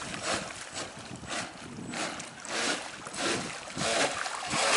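Irregular rushes of water and wind noise, coming and going every half second or so, with no steady motor whine.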